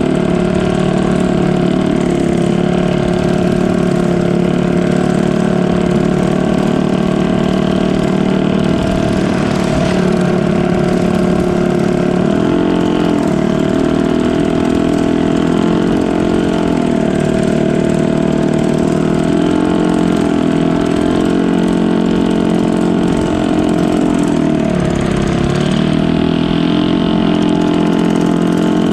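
Boat engine running steadily, with its pitch dipping briefly three times as the engine slows and picks up again.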